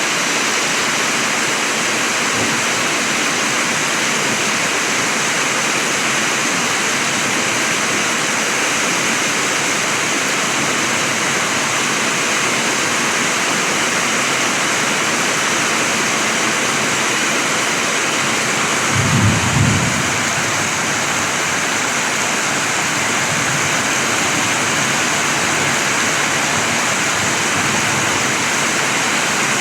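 Heavy rain falling in a steady downpour, with a brief low rumble about 19 seconds in.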